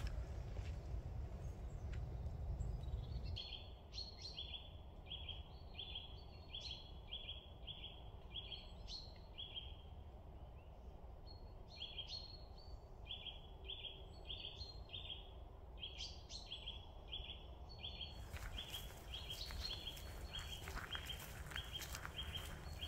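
A bird calling over and over in short high notes, about two a second, over a low outdoor rumble that is louder in the first few seconds. From about three-quarters of the way in, short crackles join in.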